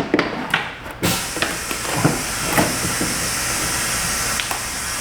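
A steady hiss starts abruptly about a second in and holds, with scattered clicks and knocks of plastic fender-liner parts and fasteners being handled.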